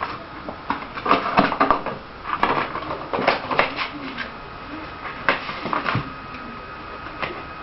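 A run of irregular knocks, clicks and scrapes, busiest in the first six seconds and thinning out near the end, over a faint steady high-pitched whine.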